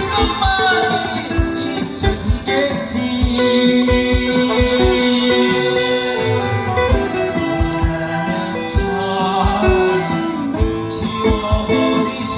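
Live performance of a song: singing over instrumental accompaniment with a steady beat.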